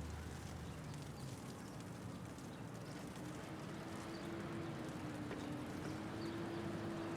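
City traffic ambience with scattered light ticks of hail. A steady hum comes in about three seconds in.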